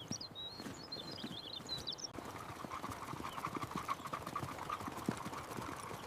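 Horse hooves clip-clopping, a run of irregular knocks, with birds chirping over the first two seconds; about two seconds in the background changes suddenly to a steadier hiss.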